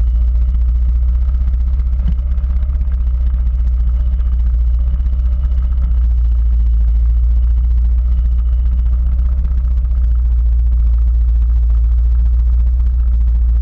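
Quad bike engine running steadily, with no revving.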